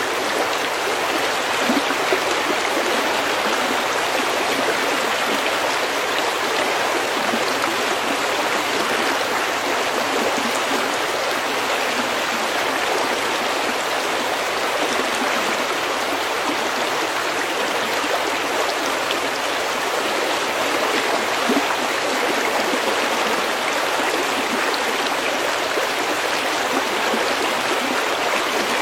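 Stream water running steadily over pebbles: an even, constant babbling rush.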